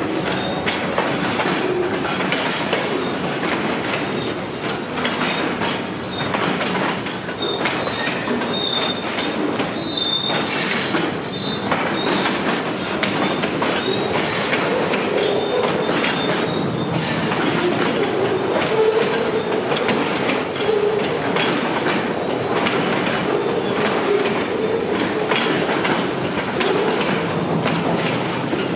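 Freight train cars rolling past, wheels clicking steadily over rail joints. A high steady wheel squeal runs through the first six seconds, followed by short scattered squeals.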